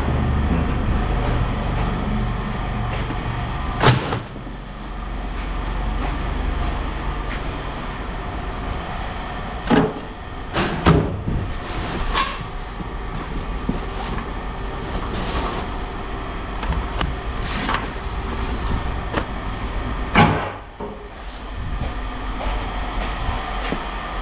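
Scrap metal clanking as pieces are dropped or thrown, about half a dozen sharp knocks spread across the stretch, over a steady low engine-like rumble.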